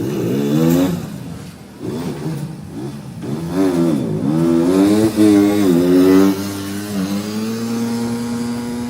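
Loader rickshaw's engine revving up and down several times, then settling to a steady run about two-thirds of the way through.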